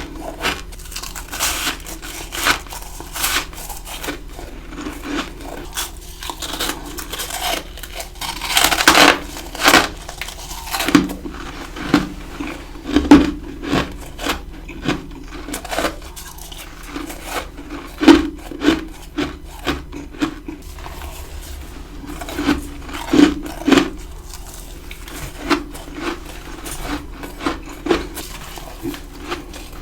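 Ice being bitten and chewed close to the microphone: an irregular run of crunchy bites and grinding chews, with a dense flurry of crunching about nine seconds in.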